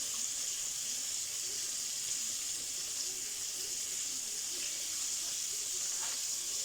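Chicken strips frying: a steady sizzle.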